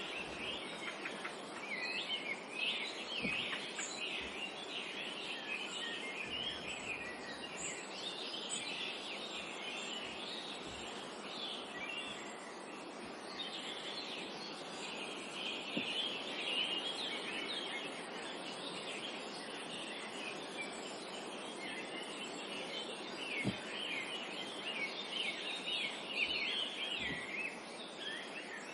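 A dense chorus of many small birds chirping at once, continuous and overlapping, over a steady background hiss of forest ambience.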